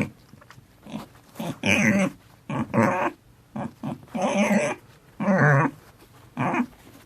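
Pig grunting and squealing in a series of about ten short calls with quiet gaps between them.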